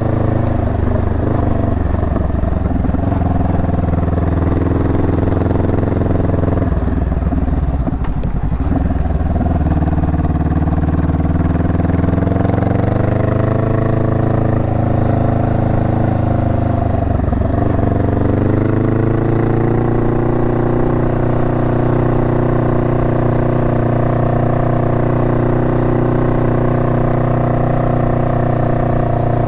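Honda Rebel 500's parallel-twin engine running on the move, its pitch dropping and climbing with throttle and gear changes about two and eight seconds in and again a little past halfway, then holding steady toward the end.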